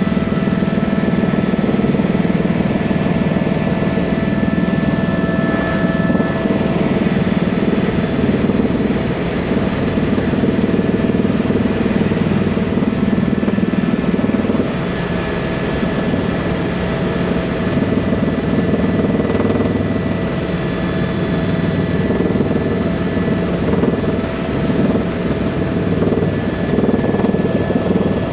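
Tour helicopter's turbine engine and rotor running steadily: a dense low rumble with a thin steady whine layered over it.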